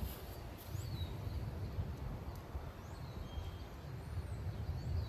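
Wind rumbling on the microphone, with a few faint, short, high bird chirps.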